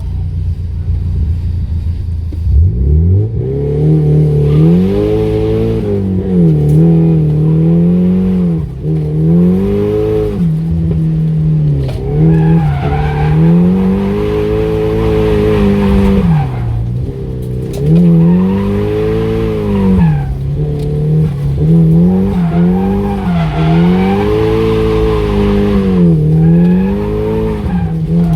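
Nissan S15 Silvia's four-cylinder engine revving up hard about two and a half seconds in, then rising and falling again and again, with tyres squealing in bursts as the car drifts.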